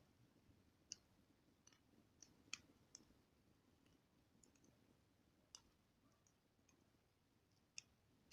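Campfire crackling softly: irregular sharp pops and snaps of burning wood, about seven of them, over a faint low rush.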